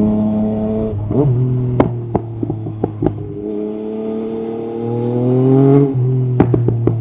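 Yamaha MT-09 SP's three-cylinder engine through an Akrapovic carbon exhaust, pulling up through the revs, then backing off the throttle with a run of crackles and pops from the exhaust. It pulls up again and then backs off near the end with another burst of pops.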